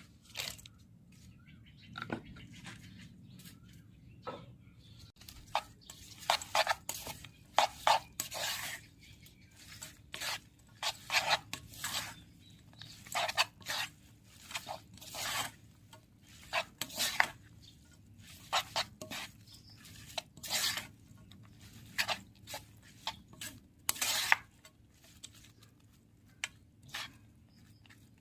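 Utensils clinking and scraping against dishes in short, irregular strokes, over a faint low steady hum.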